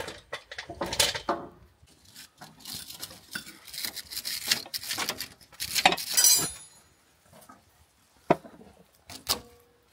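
Scattered metallic clinks and knocks of hand tools and steel parts being handled, with a louder clatter about six seconds in and a few sharp clicks near the end.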